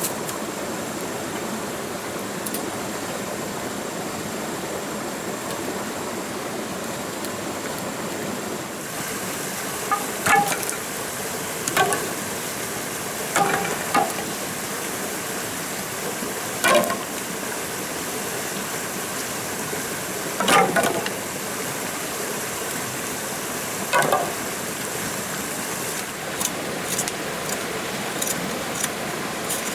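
Steady rushing background noise, like running water, with about seven sharp knocks at irregular intervals of one to four seconds and a few lighter ticks near the end. A thin high steady tone cuts out about nine seconds in.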